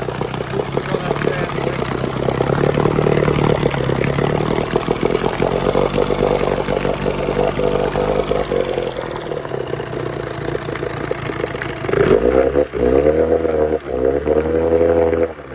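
Early-1970s Evinrude 18 hp twin-cylinder two-stroke outboard engine running steadily, then from about twelve seconds in revved up and down several times, its pitch rising and falling with each throttle blip.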